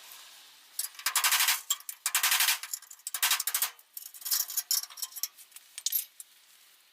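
Angle grinder working rusty steel bodywork in about five short bursts, a rapid rattling grind each time the tool meets the metal.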